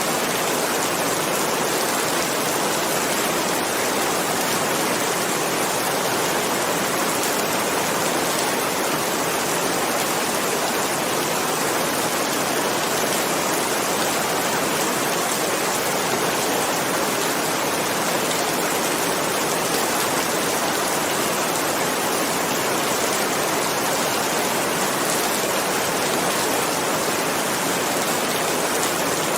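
Steady rain falling: an even hiss that does not change, with no thunder.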